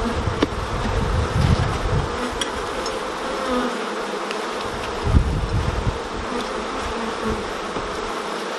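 Honeybees buzzing around an open hive: a steady drone, with a few sharp knocks and clicks from handling, about half a second in and again around five seconds.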